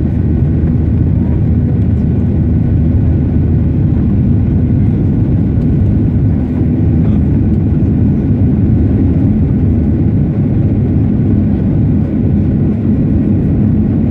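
Steady engine and airflow noise inside the cabin of a Boeing 737-800 with CFM56-7B turbofans, a loud, even rumble with a faint high whine above it.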